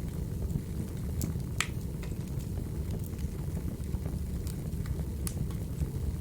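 Wood fire crackling: a steady low rumble with scattered sharp pops, the loudest about a second and a half in and again near the end.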